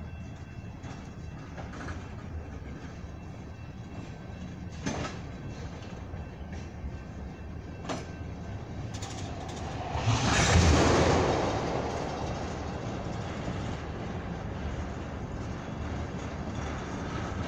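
Railroad tank cars of an ethanol train rolling past, with a steady rumble and the wheels clicking over rail joints at uneven intervals. About ten seconds in, a louder rushing swell rises and fades over two or three seconds.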